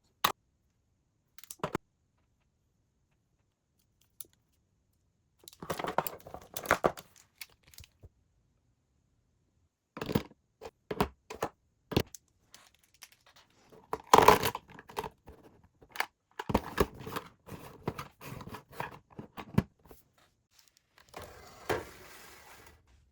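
Things being handled by hand: a few sharp clicks and knocks, then irregular bouts of crinkling, tearing and rustling, loudest about fourteen seconds in.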